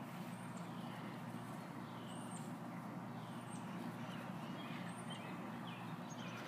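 Birds chirping outdoors, short high chirps repeating every second or two with some falling whistled notes, over a faint steady low rumble.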